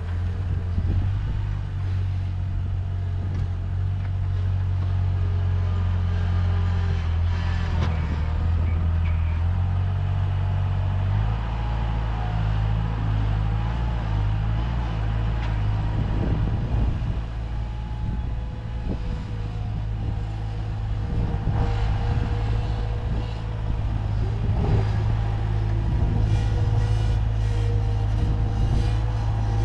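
Bobcat skid steer's diesel engine running steadily under load while it pushes dirt. The engine note changes about eleven seconds in, and a few short knocks and clanks come through.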